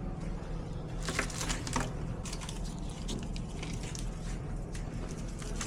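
A steady low mechanical hum of a running motor, with a few light clicks and rustles of handling.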